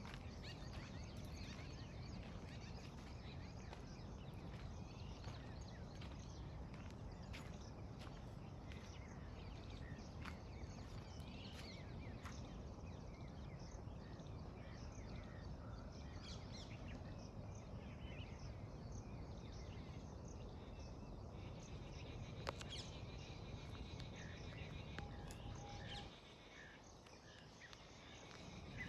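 Outdoor ambience: scattered short bird chirps over a steady low rumble that drops away for a couple of seconds near the end.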